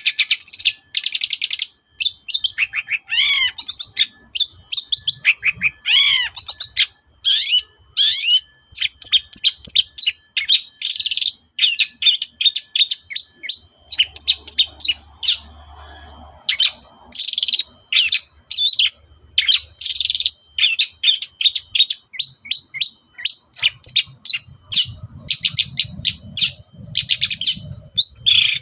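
Long-tailed shrike (cendet) singing a rapid, chattering song of short sharp notes in quick runs, with a few slurred downward notes.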